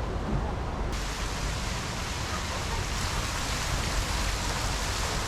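Steady rushing noise of wind buffeting the microphone, with a brighter hiss cutting in suddenly about a second in.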